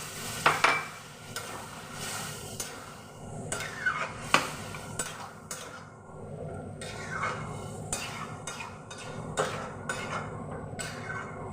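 Metal spatula scraping and knocking against a kadai (wok) as a frying curry is stirred, in a run of irregular strokes.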